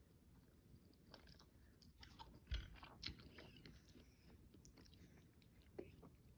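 Faint chewing and small wet clicks of a young child eating a quesadilla, with one soft thump about two and a half seconds in.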